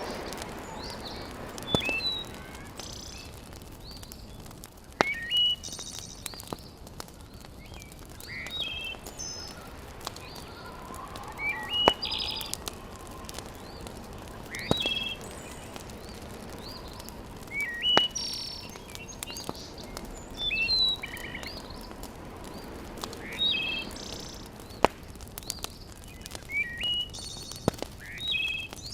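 Birds chirping outdoors in short, quick phrases of high whistled notes every few seconds. Sharp crackling pops from a wood fire are scattered among them, over a soft steady hiss.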